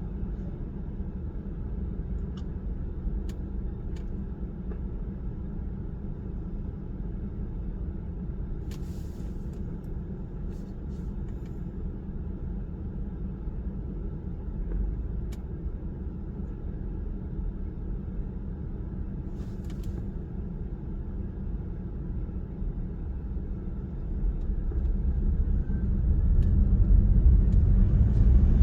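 Car driving on the road, heard from inside the cabin: a steady low rumble of tyres and engine that grows louder about 24 seconds in.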